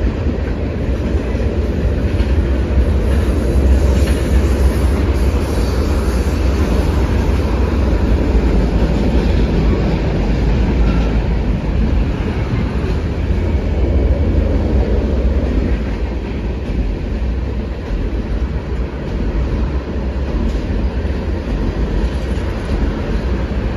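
Freight train cars (tank cars and covered hoppers) rolling across a steel plate-girder bridge: a steady, loud noise of steel wheels on rail and bridge deck.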